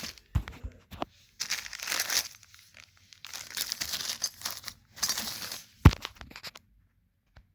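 Packing material rustling and crinkling in bursts as fan parts are handled in their box, with a few light knocks and one sharp knock near six seconds in.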